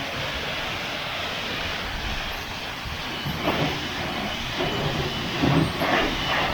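High-pressure car-wash wand spraying soapy water onto a car: a steady hiss of the water jet and spray, with a few uneven louder surges in the second half.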